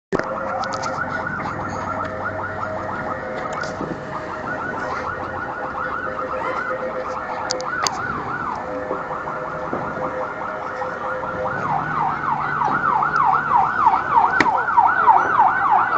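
Emergency vehicle sirens on yelp, a fast rising-and-falling whoop repeated about three times a second, with more than one siren overlapping at first. The siren grows louder over the last few seconds.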